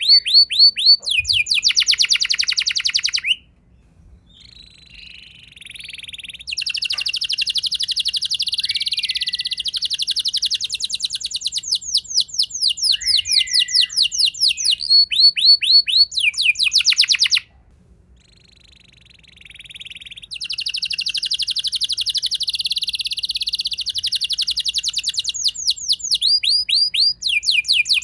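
Domestic canary singing a rolling song: long runs of very fast repeated trill notes, twice breaking off for a couple of seconds of softer, quieter notes before the roll resumes.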